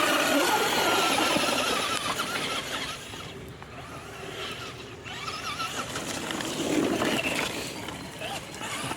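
Traxxas Slash 2WD RC truck's electric motor whining as it revs up and down under throttle. Loudest in the first couple of seconds, it eases off for a few seconds, then picks up again near the end.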